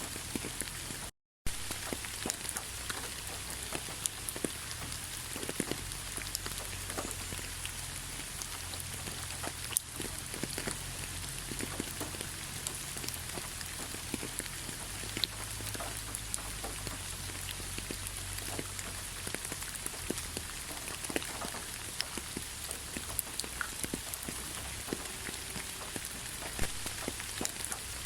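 Steady rain falling on a surface, a dense even hiss scattered with individual drop ticks. About a second in, it cuts out completely for a split second and resumes.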